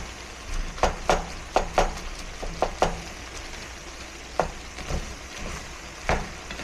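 Fried rice sizzling in a pan while being stirred, with irregular sharp knocks and scrapes of the utensil against the pan.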